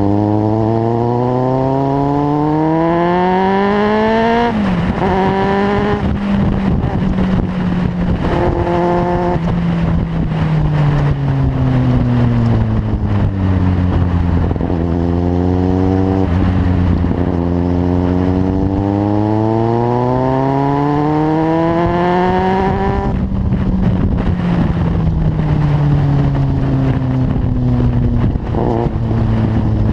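Kawasaki Z750 inline-four engine through a carbon LeoVince aftermarket exhaust while riding. The engine note rises under acceleration for about four seconds and drops sharply at a gear change. It then eases off, pulls up again in a long climb, drops once more and slowly winds down.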